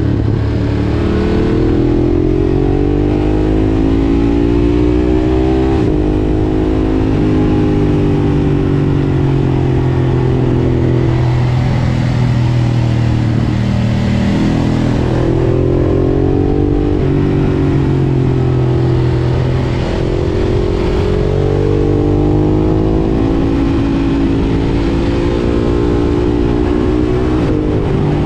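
Ducati Monster 1200 S's L-twin engine through an Akrapovič exhaust, riding and accelerating up through the gears. The revs climb and drop back at each gear change, several times over.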